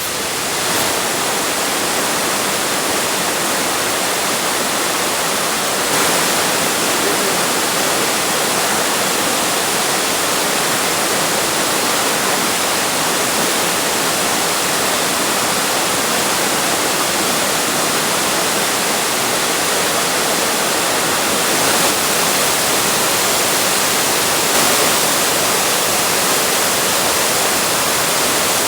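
A waterfall's steady rush of falling water, an even hiss that does not let up.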